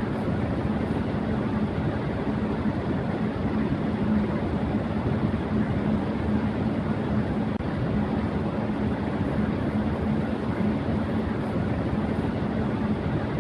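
Electric fan running at high speed: a steady rush of moving air with a steady low hum underneath.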